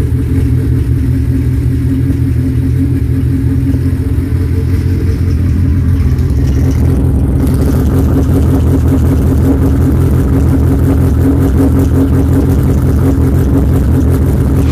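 Built, naturally aspirated Honda K24 inline-four engine idling steadily. The sound turns brighter about six seconds in.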